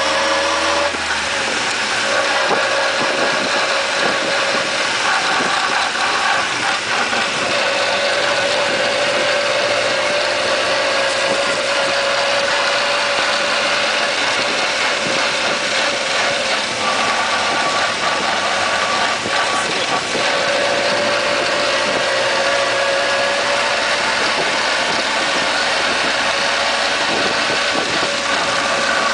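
Mitsubishi Jeep J58's transmission whining with the vehicle running: a steady high whine over the engine and drivetrain noise, rising in pitch in the first second and then holding with slight drifts. This is the abnormal gearbox noise the owner is showing.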